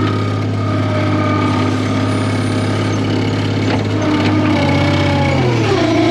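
Skid steer engine running steadily, its pitch sagging and then recovering near the end, as if briefly loaded.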